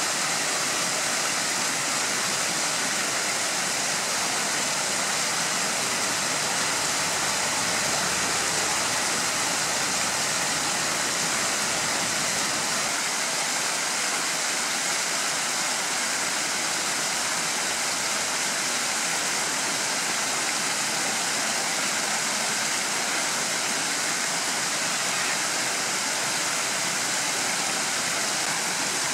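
Steady rush of flowing stream water, an even hiss with no change in level.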